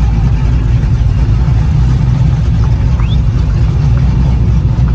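Steady low vehicle rumble, with a faint brief rising chirp about three seconds in.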